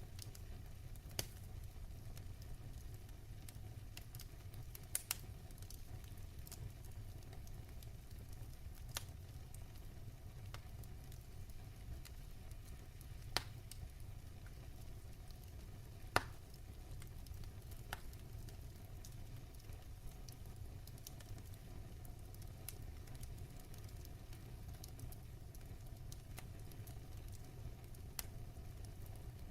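Wood fire crackling in a fireplace: a steady low rumble of flames with soft hissing and scattered sharp pops. The loudest pops come about a third and halfway through.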